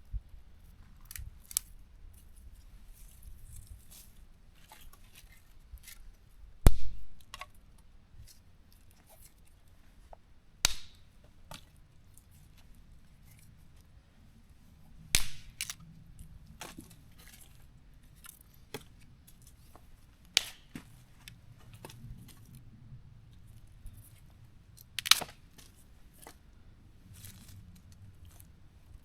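Dry firewood cracking and snapping: scattered small clicks, with five louder sharp cracks about four to five seconds apart, the first of them with a dull thud.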